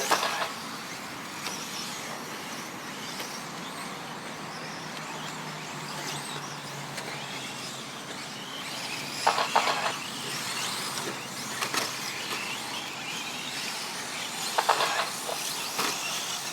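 A field of electric four-wheel-drive RC short course trucks running laps of the track: a steady hiss of motors and tyres, with two brief louder passes about nine and fifteen seconds in.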